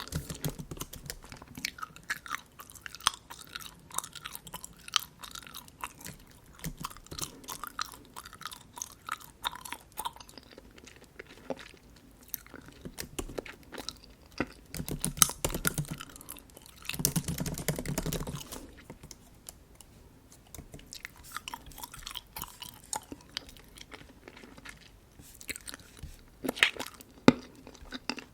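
Bubble gum chewed close to the microphone: a steady run of wet smacks and small clicks, with two louder, fuller stretches about halfway through.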